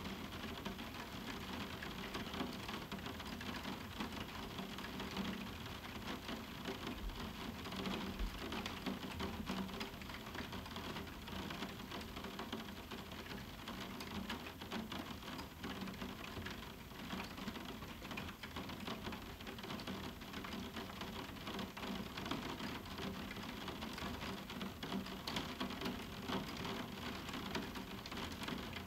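Moderate summer rain falling on a roof window, without thunder: a steady hiss full of many small drop taps on the window.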